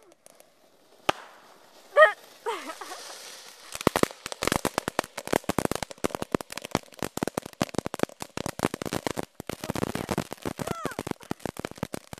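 Consumer firework going off: a loud bang with a brief shrill squeal about two seconds in, then a fast, irregular run of sharp firecracker cracks and pops from about four seconds in.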